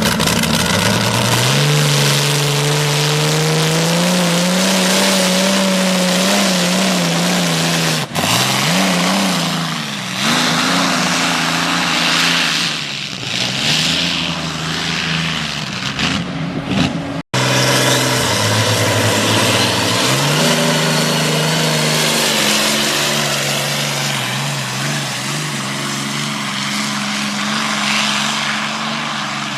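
Competition tractor's engine running hard under full load on a pulling track, its pitch climbing over the first few seconds, then dipping and wavering as it pulls. The sound breaks off sharply twice, once about 8 seconds in and again about 17 seconds in.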